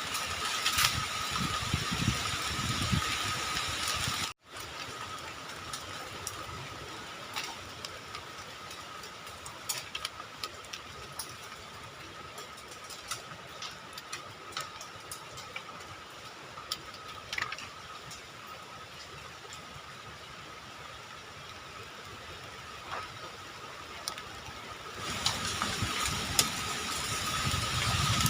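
Forest ambience in strong wind: wind rumbling on the microphone over a steady hiss, with a constant high tone and scattered small clicks. The low wind rumble falls away after a short break about four seconds in and builds again near the end.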